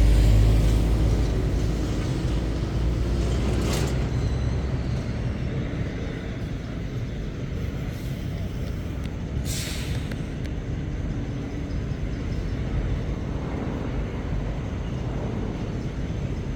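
Heavy goods vehicle's diesel engine rumbling loud at first, then fading over a few seconds as it pulls away. A short hiss of air comes about four seconds in and a stronger one near ten seconds, typical of lorry air brakes.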